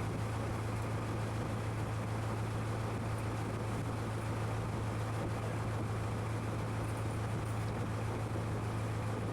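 Boat engine running steadily: a constant low drone with an even rushing noise over it.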